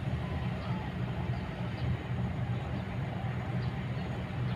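Kobelco excavator's diesel engine running with a steady low rumble, with faint irregular high ticks over it.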